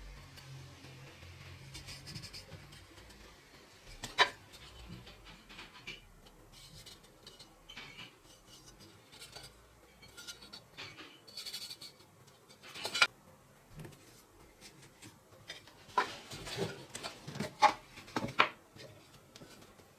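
Scattered clicks and light knocks of small hard objects being handled and set down, with some rubbing between; the sharpest knocks come about 4 seconds in, about 13 seconds in, and in a cluster near the end.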